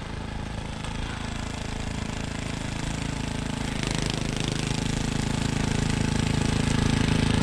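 An engine running with a rapid pulsing beat, steadily growing louder.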